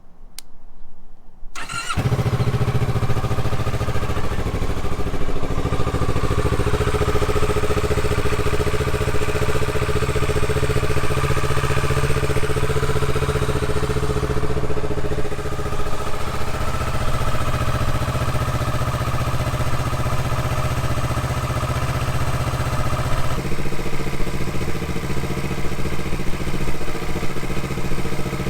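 Kawasaki Z650's parallel-twin engine starting up about two seconds in, then running steadily; its note shifts slightly near the end.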